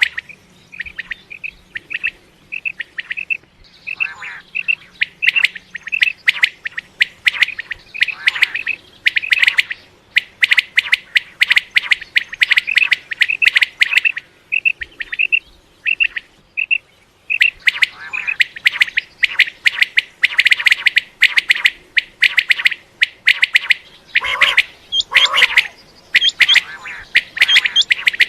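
Common quail calling: a rapid, continuous series of short, sharp notes repeated over and over, with a couple of lower, rougher calls near the end.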